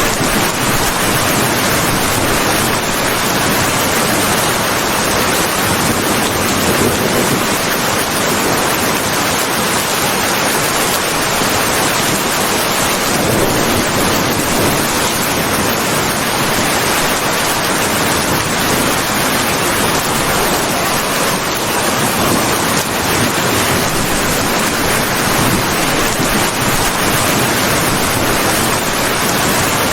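Steady rain falling: an even, unbroken hiss with no thunder or other sudden sounds.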